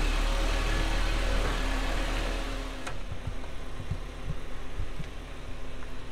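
Mk5 Volkswagen Jetta's engine running steadily. About three seconds in the sound drops quieter and a few short low thumps follow.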